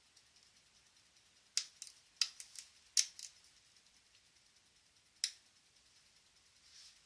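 A series of short, sharp clicks in irregular clusters, about eight in all, mostly between about a second and a half and three seconds in, with one more past five seconds.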